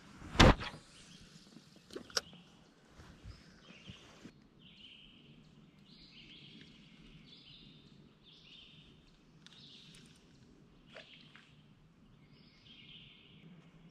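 A sharp knock about half a second in, then a songbird singing a string of short repeated phrases, faint, over a low steady hum.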